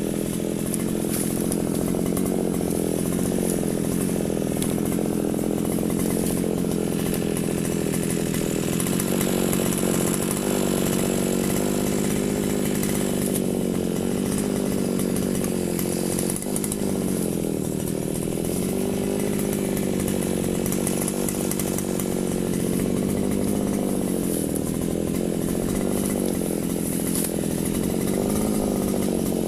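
Firman FGB 528 brush cutter engine running at high speed while cutting grass. Its pitch sags briefly a few times as the blade takes load, then recovers.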